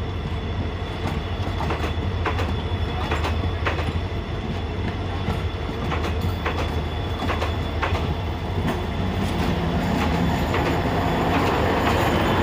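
Passenger coaches rolling past close by, their wheels clicking over the rail joints every second or so over a steady low rumble and a thin high whine. Near the end the sound grows louder and fuller as the train's locomotive comes by.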